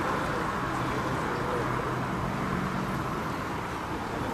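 Steady road traffic noise from passing vehicles, with faint voices in the background.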